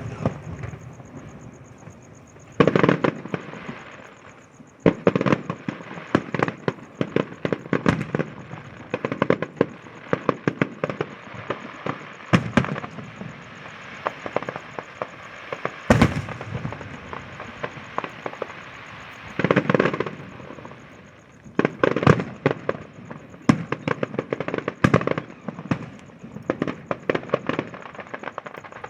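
Firecrackers and aerial fireworks going off: rapid, continuous crackling pops with louder single bangs every few seconds.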